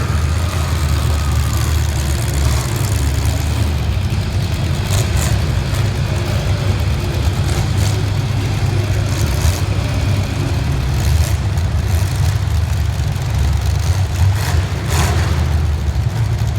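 Demolition derby car engines running loud and rough, a steady low rumble that rises and falls with revving. Several short bangs cut through it, the clearest near the end, as the cars collide.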